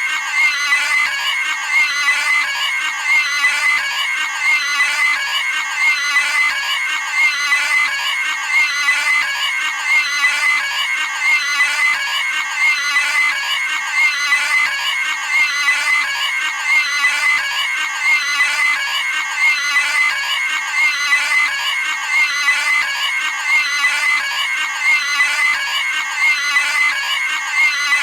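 Cartoon pig screaming sound effect: one short, high-pitched squeal looped over and over, about once every second and a half.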